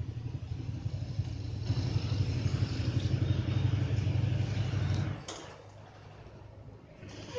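Triumph Tiger XRx's three-cylinder engine idling with a rapid low pulse, then shut off about five seconds in as the bike is parked.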